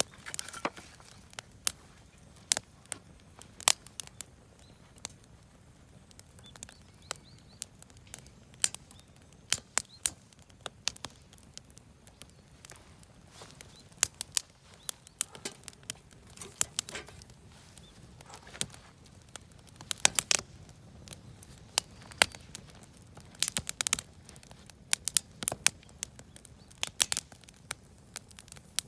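Wood fire of lumber offcuts and firewood crackling: irregular sharp pops and snaps, some in quick clusters, over a faint low rumble.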